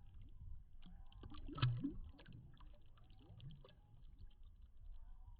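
Faint handling noises while a just-caught bass is unhooked: scattered small clicks and knocks, with one louder knock about a second and a half in.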